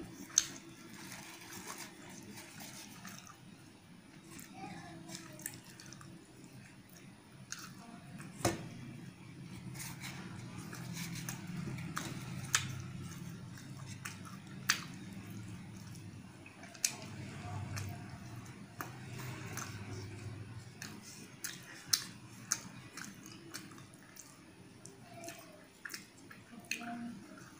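Close-up eating sounds: puri and potato curry being chewed, with wet mouth sounds and sharp lip smacks and clicks every few seconds.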